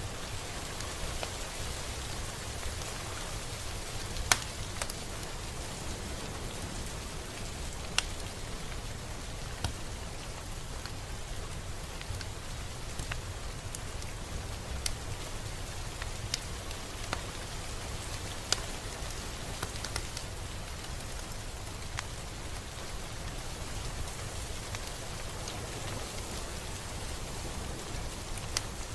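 Steady rain falling, with single drops now and then ticking sharply close by; the loudest drop lands about four seconds in.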